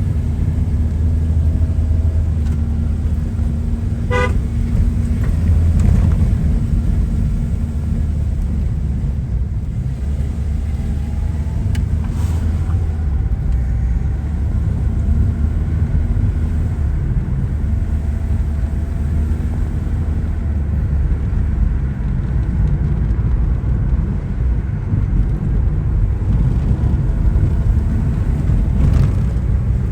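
A car running on the road, a steady low rumble of engine and road noise, with a short horn toot about four seconds in.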